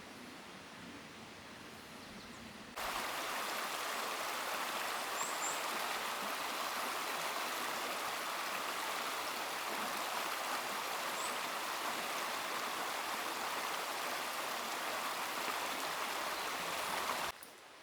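A forest stream running, an even rush of flowing water that cuts in abruptly about three seconds in and cuts off abruptly just before the end. Before it there is only faint, quiet outdoor ambience.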